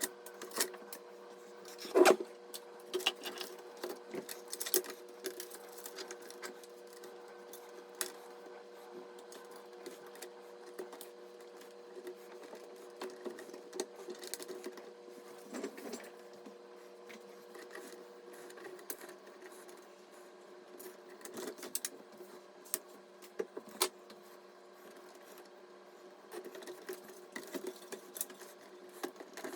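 Irregular clicks, taps and light scraping of small hard computer parts being handled and fitted during PC assembly, with a sharp clack about two seconds in. Under them runs a faint steady hum, part of which stops about two-thirds of the way through.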